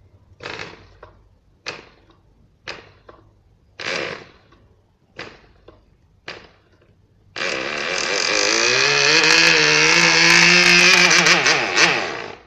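FORA 2.5 model-aircraft compression-ignition (diesel) engine being hand-flipped: six short pops about a second apart as it fires on single strokes, then it catches and runs loudly with a steady, slightly rising note for about five seconds before cutting out. The owner says its compression is poor.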